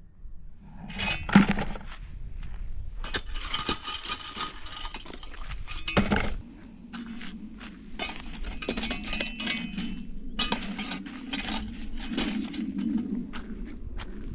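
Hard objects clinking and knocking against each other again and again, some clinks ringing briefly.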